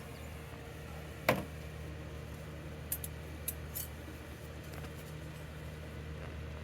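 Beehive parts and tools being handled: one sharp click about a second in, then a few light clicks about two to four seconds in, over a steady low hum.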